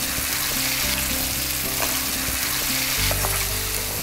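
Chicken pieces frying in oil with onions and spice powders, a steady sizzle, with a few light taps and scrapes of a spoon stirring the pan. Soft background music with held low notes runs underneath, changing about three seconds in.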